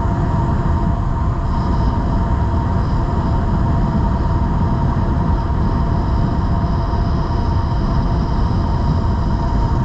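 Wind rushing over the microphone while riding an electric bike at a steady speed, with a steady whine from the e-bike's motor running beneath it.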